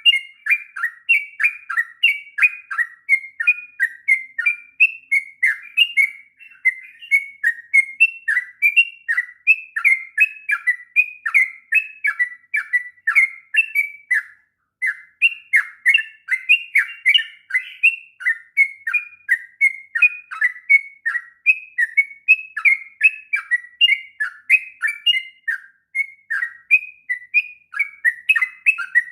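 Yellow-vented bulbul (trucuk) singing a long, unbroken run of short whistled notes, about three or four a second, with one brief pause about halfway.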